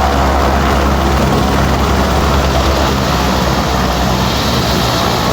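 Helicopter running: loud, steady rotor and engine noise.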